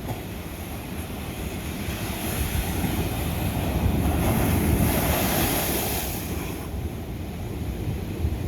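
Ocean waves breaking on old lava rock. A wave swells and crashes about halfway through with a loud hiss of white water, then washes back over a steady low rumble of surf.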